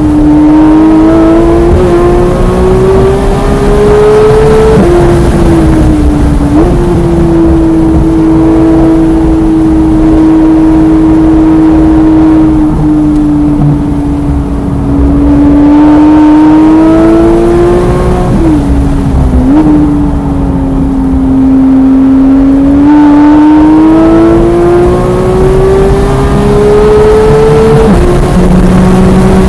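Porsche 991.1 GT3's naturally aspirated 3.8-litre flat-six running hard on track. Its note climbs steadily as the car accelerates and drops suddenly at upshifts, with brief jumps in pitch at the braking downshifts.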